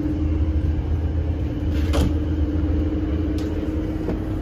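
Steady low rumble of a moving ICE high-speed train heard from inside the carriage, with a constant hum over it. Two sharp clicks come about two seconds in and again a second and a half later.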